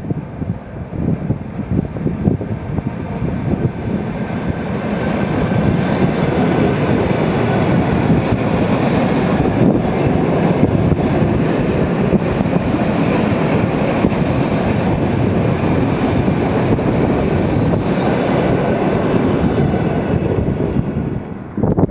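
Electric multiple-unit commuter train passing close by: the running noise of wheels on rails builds over the first few seconds, holds steady and loud while the carriages go past, and falls away about twenty seconds in. Wind buffets the microphone at the start.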